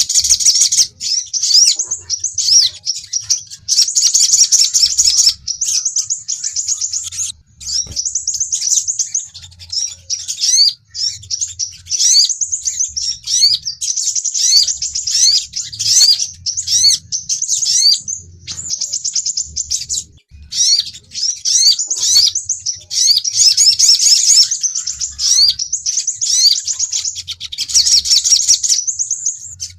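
Sunbirds (sogon and crimson sunbird) calling: rapid, high-pitched chirping and twittering trills in repeated bursts with brief pauses, played as a lure call to attract birds.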